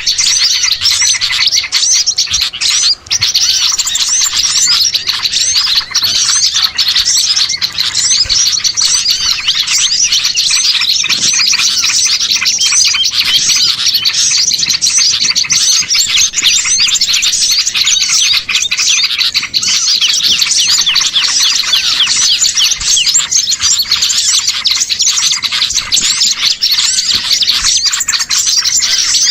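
A dense, unbroken chorus of many small songbirds chirping and twittering in quick overlapping calls: a "ribut" bird-lure recording of agitated small birds, played to draw other birds in.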